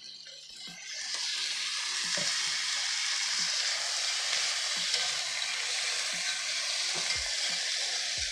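Onions sizzling in a hot cast iron skillet, the sizzle rising sharply about a second in as vinegar is poured into the pan, then holding steady while they are stirred with tongs with light clicks.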